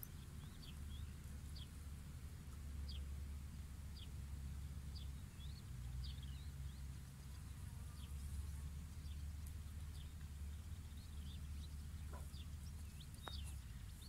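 Small birds chirping faintly, many short high calls scattered throughout, over a low steady rumble.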